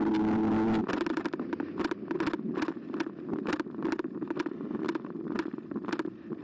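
Electric bike motor whining steadily, cutting out just under a second in; the bike then rolls on with rough tyre noise and many irregular clicks and rattles.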